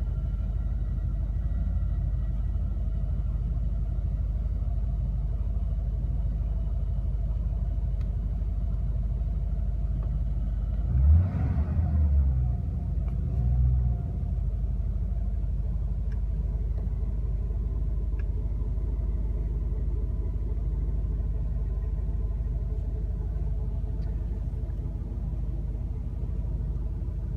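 Mercedes-Benz 450SLC's 4.5-litre V8 idling steadily, heard from inside the cabin. A little before halfway through it is revved briefly, then given a second, smaller blip.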